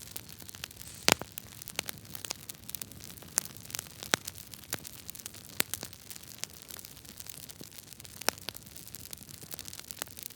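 Campfire burning, its wood crackling and popping irregularly over a steady low hiss, with one loud pop about a second in.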